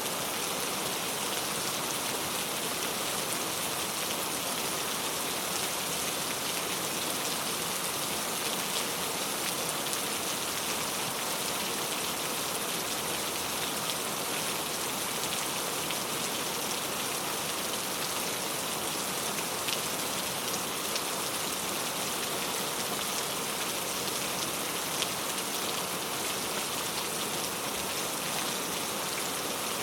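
Very heavy rain falling steadily, a dense even hiss of drops with scattered sharper drop ticks.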